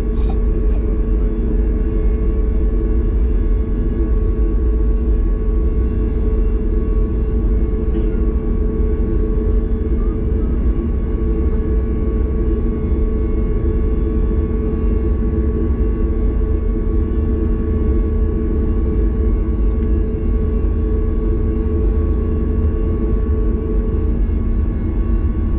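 Cabin noise inside a Boeing 737 MAX 8: a steady deep rumble from its CFM LEAP-1B engines and the airflow, with several constant hum tones over it.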